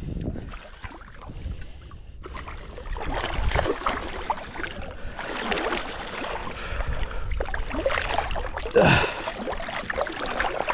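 Water sloshing and splashing during a fight with a hooked smallmouth bass in a shallow river, uneven with irregular splashes. A brief sound sliding down in pitch is loudest near the end.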